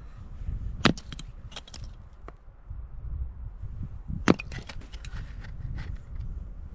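Wood crackling as it burns in a tent stove: many small crackles and two loud sharp pops, about a second in and about four seconds in, over a low rumble.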